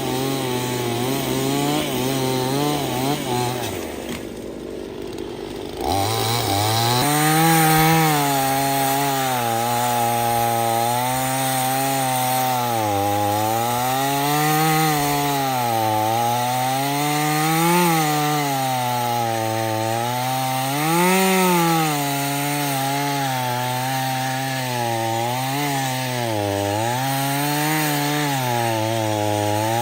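Chainsaw running while cutting wood, its engine pitch rising and falling as the chain loads up and frees in the cut. The engine drops back and goes quieter about four seconds in, then revs up again around six seconds.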